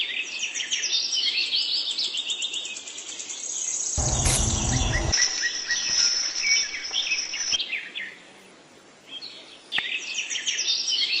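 Small birds chirping in quick, high notes, with a brief low rumble under them about four seconds in and a short lull around eight seconds in.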